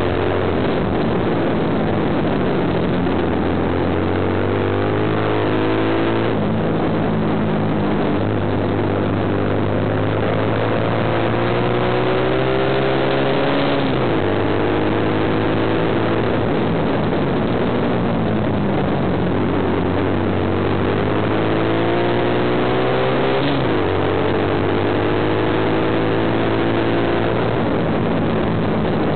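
Kawasaki KSR110 mini-bike's small single-cylinder four-stroke engine at racing revs on track, heard from on board. Its pitch climbs steadily for several seconds and then drops sharply, about three times over.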